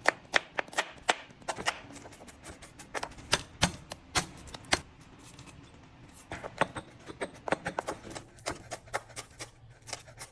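An irregular series of sharp taps and clicks, a few a second, with a short lull about halfway through.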